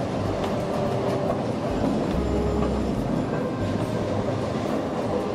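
Railway passenger carriage rolling along, heard from inside: a steady rumble and rattle of wheels on the rails with light clicks, and a deeper low hum swelling for a moment about two seconds in.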